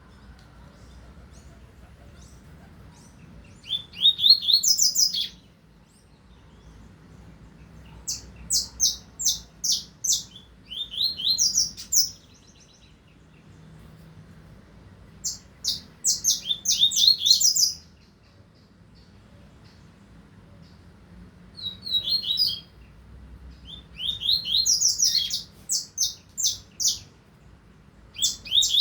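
A double-collared seedeater (coleiro) singing: about five bouts of quick, high, rapidly repeated notes, each a second or three long, with pauses of a few seconds between them.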